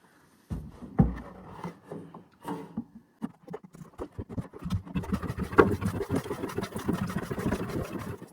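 A sharp knock and some scraping, then from about three seconds in a steady, rapid clatter of an old hand-operated mechanical drum pump being worked, pumping hydraulic oil from a drum into an empty container.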